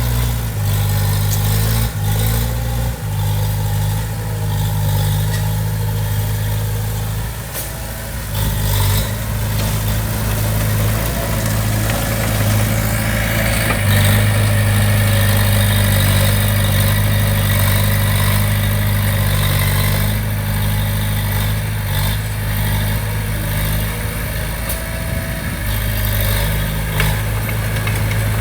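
Diesel engine of heavy earthmoving equipment running steadily at low revs, with its load and pitch shifting now and then and a few knocks early on.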